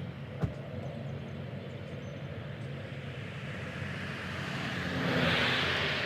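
Aircraft engine noise: a steady low rumble, with a rushing sound that swells and grows loudest near the end. A single sharp click sounds about half a second in.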